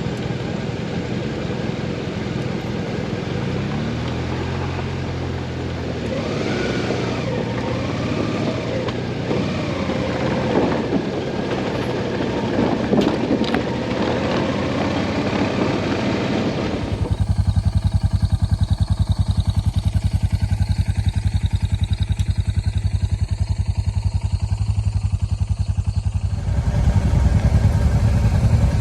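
Motorcycle engines running. A little past halfway one engine becomes loud and close, a steady low pulsing beat.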